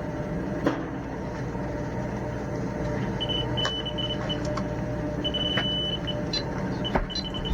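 Electronic carp bite alarm sounding a high-pitched tone, first in broken beeps about three seconds in, then running into a near-continuous tone: a carp taking line in a fast run. A steady low rumble lies underneath.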